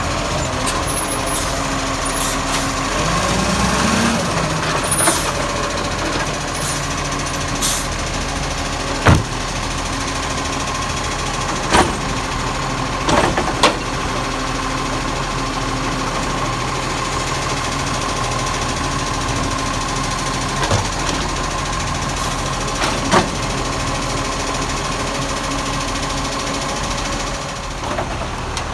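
Garbage truck engine running steadily, its pitch rising briefly a few seconds in. Several sharp metallic knocks sound at intervals over it.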